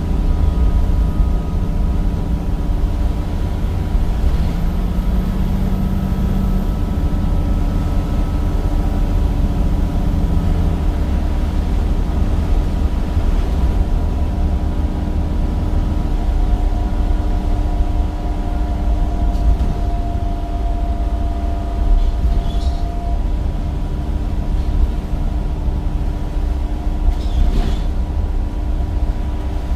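Temsa Avenue bus's replacement Cummins diesel engine and ZF gearbox under way: a steady low drone with a constant whine. The engine note shifts during the first ten seconds, a higher whine sounds from about the middle until a little past two-thirds of the way through, and there are a few brief rattles.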